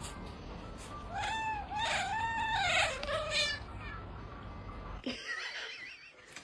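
A domestic cat yowling: one drawn-out, wavering meow that rises and falls in pitch, starting about a second in and lasting a little over two seconds.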